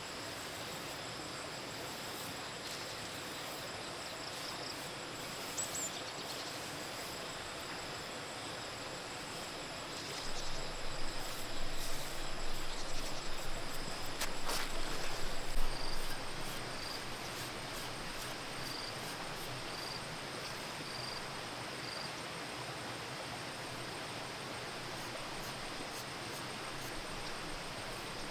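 Outdoor ambience with insects chirring steadily in the background. Midway through, there are a few seconds of louder, uneven working or handling noises with a sharp click.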